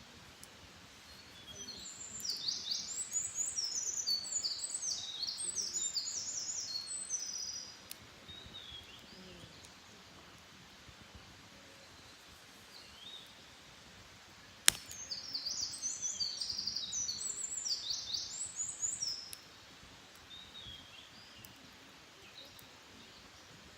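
A wild songbird singing two long, rapid songs of high twittering notes, each about six seconds, with a few fainter calls in between. A single sharp crack comes just before the second song.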